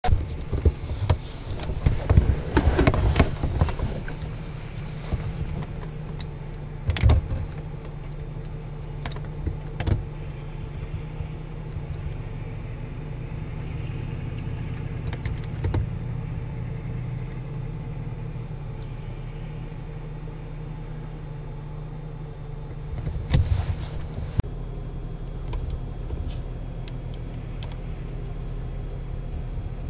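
Car engine running, heard from inside the cabin as a steady low hum, with a few short knocks and clatters, most of them in the first few seconds and another burst a little over three quarters of the way through.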